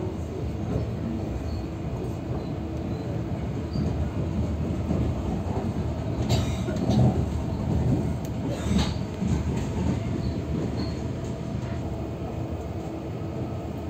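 Running noise of a double-decker passenger train heard inside the carriage: a steady low rumble of wheels on the rails, with two sharp clacks about six and nine seconds in.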